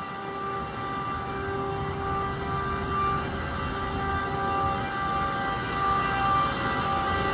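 A school building's HVAC chiller running: a steady mechanical drone of rushing noise with a few steady tones on top that swell and fade a little.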